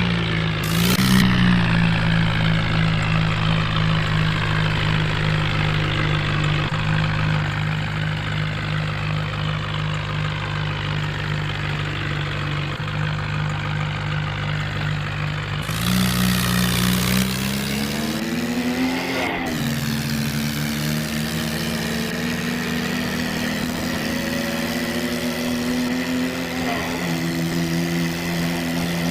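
Tractor engine sound running steadily at a low pitch, stepping up in pitch about halfway through and sweeping up and back down a few seconds later, with a fainter whine above it.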